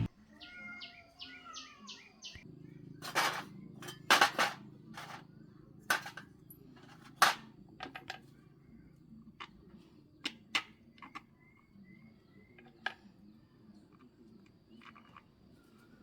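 Scattered sharp clicks and knocks at irregular intervals, the loudest about four and seven seconds in, over a faint steady low hum. Birds chirp briefly at the start.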